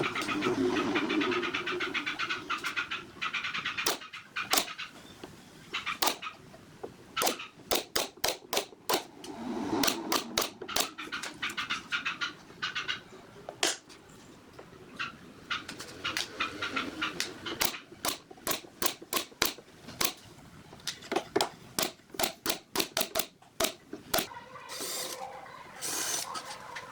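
Woodworking workshop sounds: runs of sharp knocks on wood, several a second, like hammering or fastening, between a few short stretches of a rasping, buzzing tool noise.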